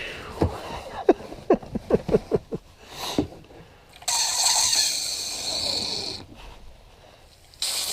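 Hand pump sucking bilge water out of a kayak: a quick run of about eight short squeaky strokes, each sliding down in pitch, then a rushing hiss about four seconds in that lasts about two seconds.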